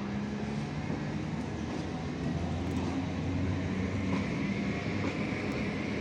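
Electric multiple unit (EMU) suburban local train running along the track, a steady low rumble that grows slowly louder as it draws nearer.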